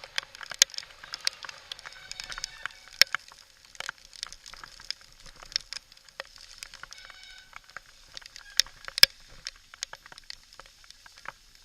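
Full-suspension mountain bike rattling down a rocky trail: an irregular run of sharp clicks and knocks, with a few louder knocks and brief squeal-like tones.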